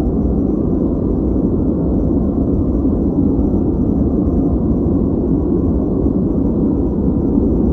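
Continuous generated noise sold as white noise, but shaped dark: a steady, deep, rumbling hiss with little treble, unchanging throughout.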